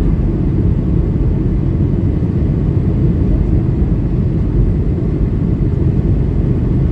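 Steady low rumble inside the cabin of a Boeing 737-800 in flight during descent: the CFM56-7B engines and the airflow over the fuselage, heard from a window seat.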